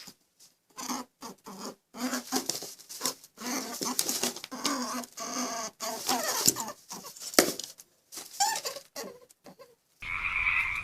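Small animals' irregular squeaky calls and scuffling patter. About ten seconds in it cuts abruptly to a steady chorus of croaking frogs.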